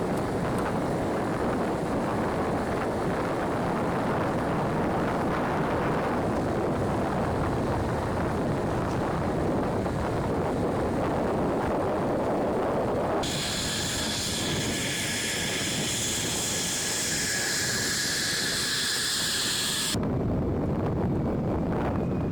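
Fighter jet engine noise: a steady rough roar. About 13 s in it cuts abruptly to a high-pitched jet whine with several steady tones, then at about 20 s cuts back to the lower roar.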